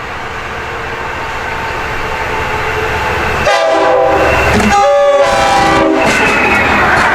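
A diesel passenger train approaches, its rumble growing louder. About halfway through, an LIRR DM30AC locomotive's multi-tone air horn sounds two blasts of about a second each. This is a grade-crossing warning, and rail noise carries on as the train passes.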